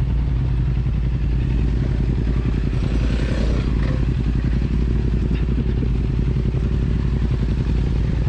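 Yamaha MT-07's parallel-twin engine with an Akrapovic exhaust running steadily, heard from the rider's position without any clear revving up or down.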